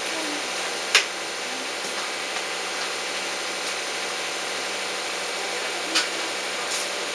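Steady background hiss with two sharp knocks, a loud one about a second in and another near the end.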